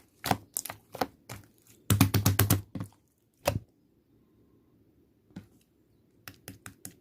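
Slime being squeezed and pressed by hand, making a run of sharp clicks and pops. The clicks come thickest and loudest about two seconds in, stop for a couple of seconds, then start again near the end.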